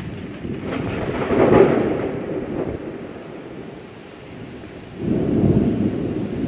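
Thunder rumbling during a heavy downpour, swelling loudest about a second and a half in and rising again about five seconds in, over the steady hiss of rain.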